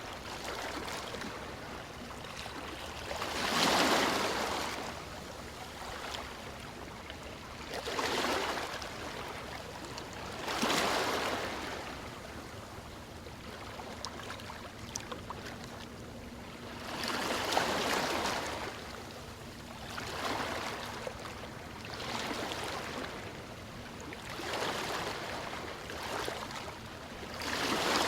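Ocean waves washing in, the surf swelling up and falling back every few seconds over a constant background wash.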